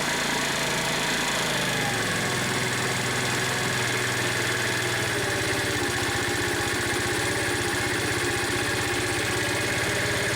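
2017 TaoTao 50cc scooter's four-stroke GY6-type engine running steadily just after a hand-choked start, with its carburettor intake not hooked up. The low engine note shifts slightly about two seconds in.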